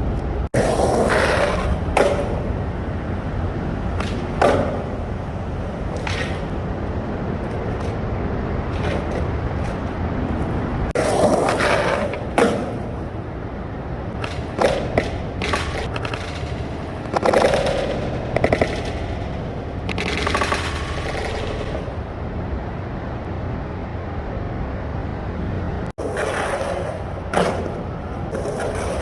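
Skateboard wheels rolling on concrete with a steady rumble, broken every few seconds by sharp clacks and pops of the board hitting, with a few longer scraping stretches of trucks grinding a ledge.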